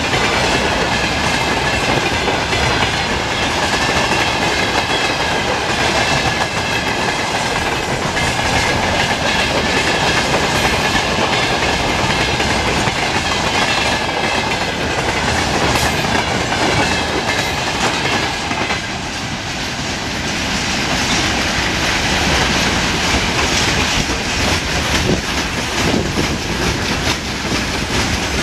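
Freight train's wagons rolling past, wheels clattering over the rail joints with a continuous rumble and a wavering high ringing from the wheels on the rails. The level dips briefly about two-thirds of the way through, then picks up again.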